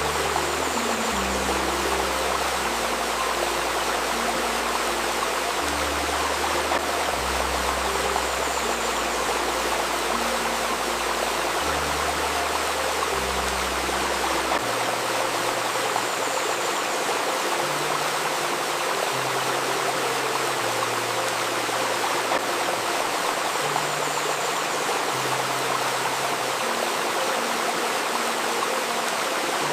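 Babbling river stream, a steady rush of water, mixed with soft low sustained synth notes that shift pitch every second or two underneath.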